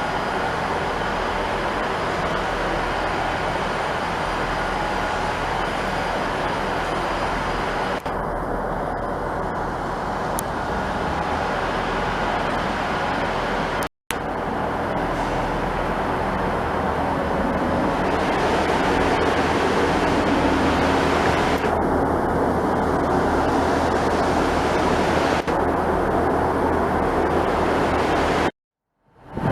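Steady rumbling vehicle noise that holds level throughout, broken twice by abrupt cuts to silence: an instant one about halfway through and a slightly longer one near the end.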